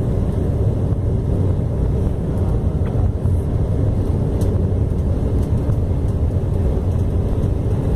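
Steady low rumble of a vehicle in motion, holding an even level throughout.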